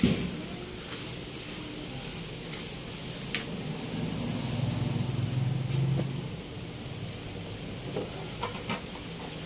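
Pork pieces sizzling in a wok, with a metal spatula knocking sharply against the pan at the start and once more about three seconds in. A low hum swells and fades in the middle.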